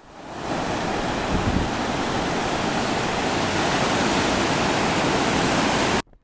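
Steady rushing of ocean surf and wind at a beach. It fades in at the start and cuts off abruptly about six seconds in.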